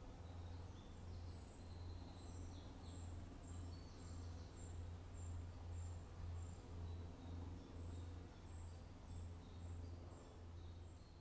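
Faint woodland ambience: a small bird calling with short, thin high notes repeated about twice a second, over a low hum that pulses a few times a second.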